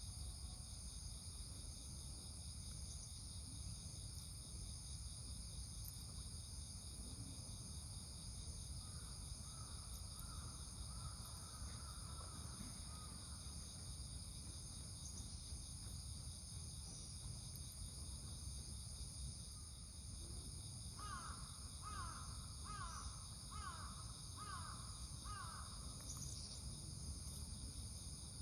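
Steady high-pitched insect chorus over a low outdoor rumble. About twenty seconds in, a bird gives a run of repeated calls, roughly one a second for about five seconds, after fainter calls earlier.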